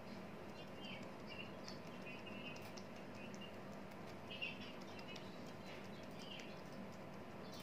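Faint birds chirping, short warbling calls repeated every second or so, over a steady low hum.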